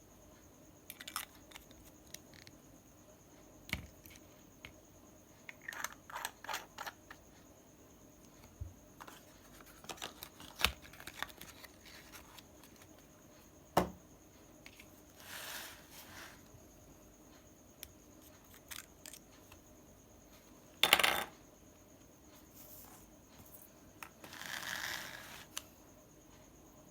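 Small clicks, taps and rattles of a pen being handled during an ink refill, with light rustling, a loud short clatter about two-thirds of the way through and a sharp tap a little after halfway.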